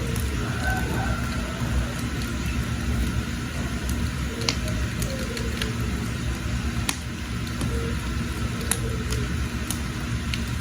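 Wood fire burning under a pot: a steady low rumble with scattered sharp pops and crackles every second or so.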